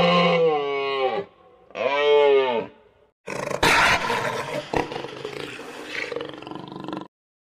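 A cow mooing twice, two drawn-out calls that each rise and then fall in pitch. After a short pause comes a rough, noisy sound with a couple of sharp knocks, which stops about a second before the end.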